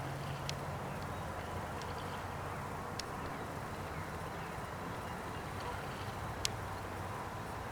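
Outdoor ambience: a steady low hum under a background hiss, broken by three or four short, sharp, high clicks or chips.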